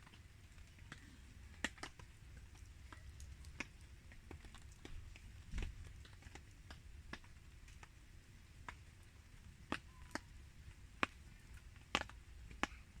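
Wood fire crackling: sparse, irregular sharp pops and snaps, about one a second, over a faint low rumble, with a duller thump about halfway through.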